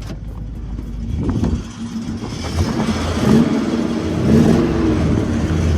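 LS V8 in a box Chevy running on a freshly installed exhaust, revved up twice in the second half.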